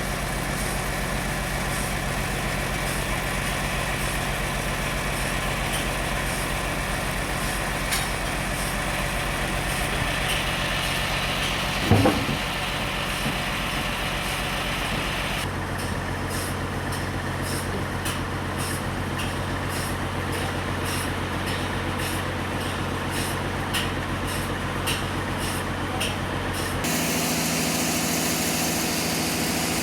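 Sawmill machinery running steadily, with one sharp knock about twelve seconds in. The sound changes abruptly twice, about halfway through and again near the end.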